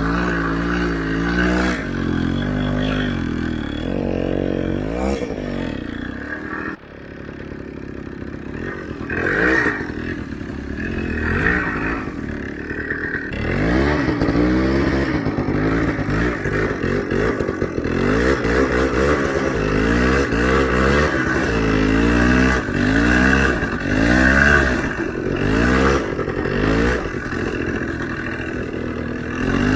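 Small off-road motorcycle engine revving up and down over and over, its note rising and falling every second or two, with a short break about seven seconds in.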